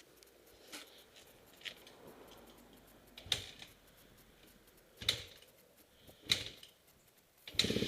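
Freshly rebuilt 2004 Honda CRF250R single-cylinder four-stroke being kick-started: several separate clunking kicks, then the engine catches near the end and runs steadily.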